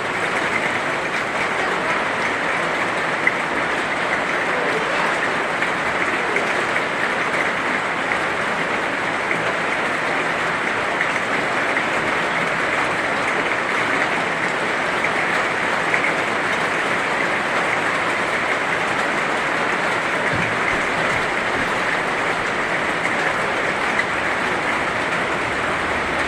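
Heavy rain falling steadily, a dense even hiss with a few louder drops standing out.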